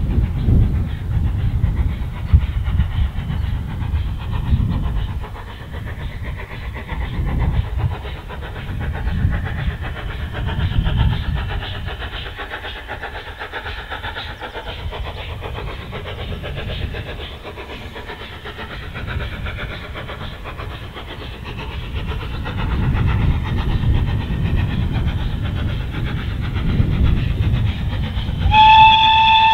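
Ex-Somerset & Dorset 7F 2-8-0 steam locomotive 53809 running with a heavy low rumble that eases off in the middle and builds again. Near the end its steam whistle sounds one steady note.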